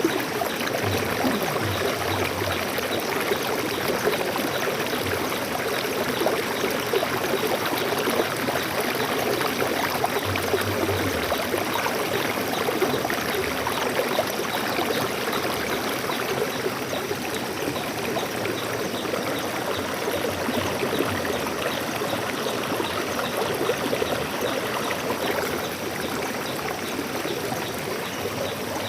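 Stream water flowing steadily over rocks, an even babbling with no change in level.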